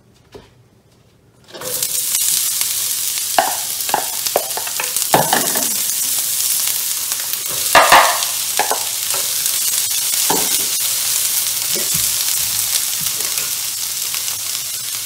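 Diced onions and red bell pepper hitting hot oil in a cast iron skillet about a second and a half in, then sizzling steadily as they sauté, with intermittent scrapes and taps of a spatula on the bowl and pan.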